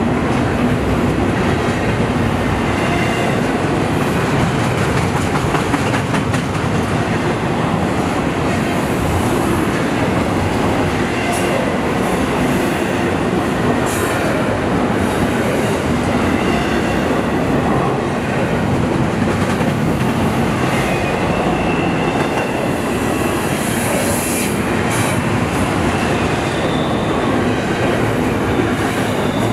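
Double-stack intermodal well cars of a freight train rolling past close by: a steady, loud rumble and rattle of steel wheels on the rails, with a few sharp clanks and, now and then, a faint high wheel squeal.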